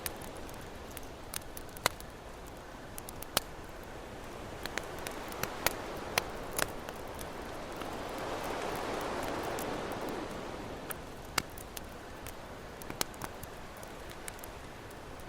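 Campfire crackling with sharp, irregular pops over the steady wash of ocean waves; a wave swells up and recedes about halfway through.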